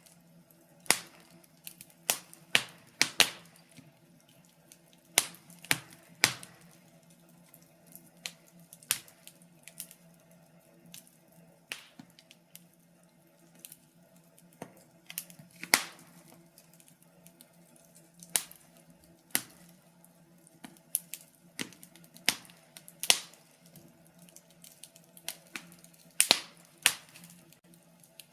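Wood fire crackling: irregular sharp pops and snaps, some loud, some faint, over a faint steady low hum.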